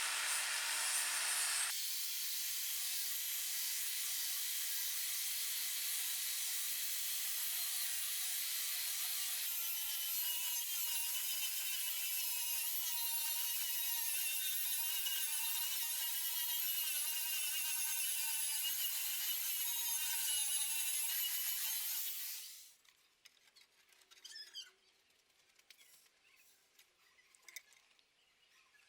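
A power tool running steadily on the work, its pitch shifting slightly twice, then stopping about twenty-two seconds in. Faint small clicks and knocks follow.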